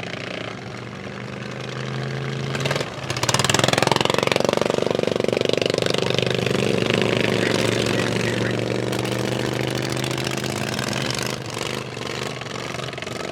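Racing lawn mower engines running hard. They get suddenly louder about three seconds in and fade gradually toward the end.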